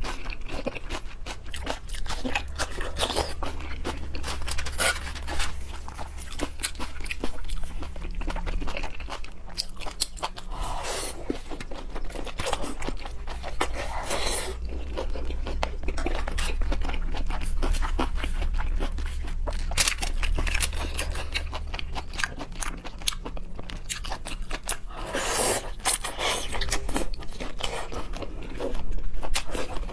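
Close-miked chewing, biting and crunching of seafood, with wet, irregular mouth sounds throughout and a steady low hum underneath.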